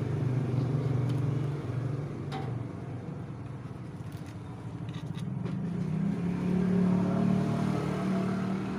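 An engine running steadily, its note fading a little, then rising to a higher, louder pitch from about six seconds in, with a few light clicks.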